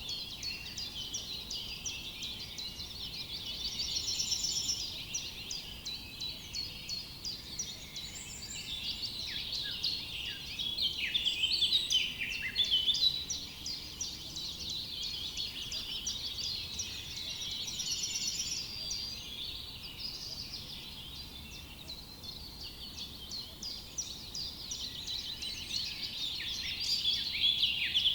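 A chorus of many songbirds chirping and singing at once in forest, their quick, overlapping high notes swelling louder about ten seconds in and again near the end.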